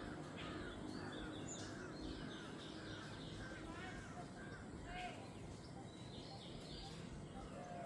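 Jungle birdsong: several birds calling at once, with repeated short arching calls and higher rapid chirps over a steady low background hiss.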